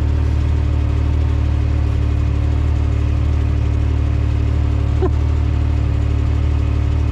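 Off-road vehicle engine idling steadily, a constant low hum that does not rise or fall.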